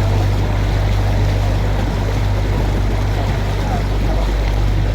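Tour boat's motor running steadily with a low hum, under an even rushing noise.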